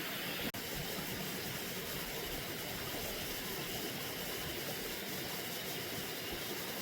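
Steady rushing outdoor background noise, with one short click about half a second in.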